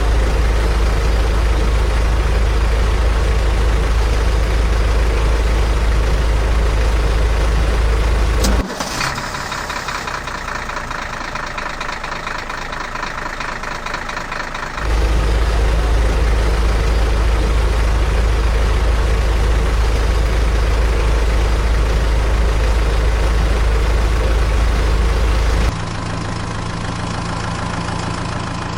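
Engine running steadily with a deep rumble, in edited segments that change abruptly about 9, 15 and 26 seconds in.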